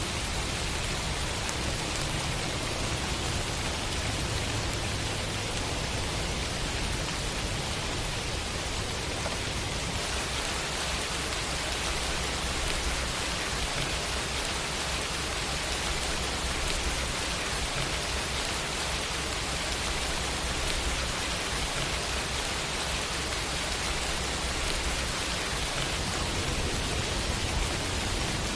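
Steady, dense rain with a smooth hiss and no distinct drops or thunder. The balance of the hiss shifts slightly about a third of the way in.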